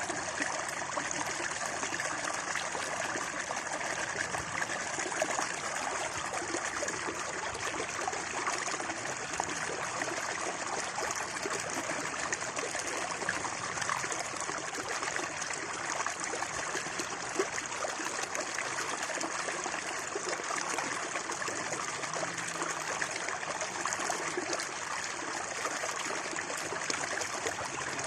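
Water babbling and trickling steadily in a wadi stream.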